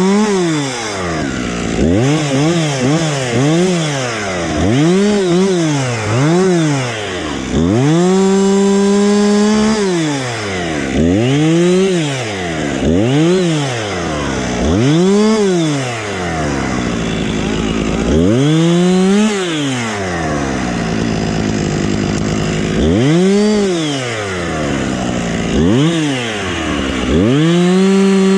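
Husqvarna chainsaw revved again and again in short bursts, the engine climbing to full throttle and dropping back about a dozen times, with a few longer held cuts: limbing branches off a felled tree.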